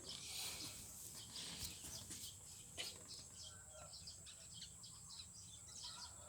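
Faint, scattered chirps of small birds over a quiet rural background hiss.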